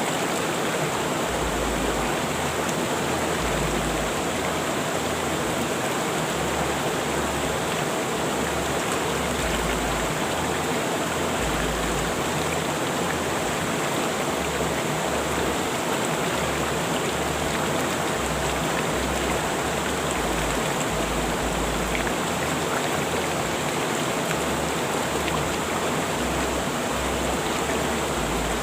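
Rushing river water flowing steadily, an even hiss and rumble of the current.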